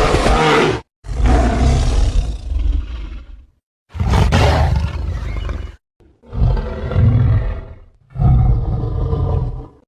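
King Kong giant-ape roar sound effect, played several times in a row. Each roar lasts one to two and a half seconds and ends abruptly, with short silent gaps between them.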